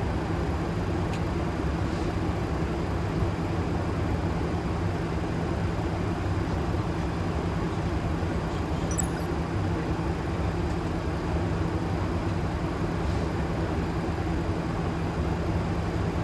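Steady flight-deck ambient noise of a Boeing 737 in descent: an even rush of air with a low hum underneath.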